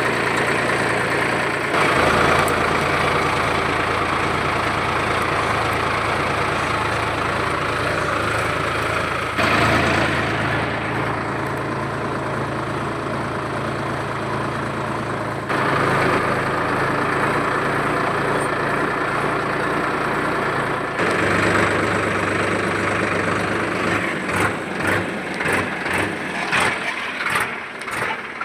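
Tractor engine running steadily, its note stepping abruptly to a different pitch and level several times. It turns to an uneven pulsing in the last few seconds.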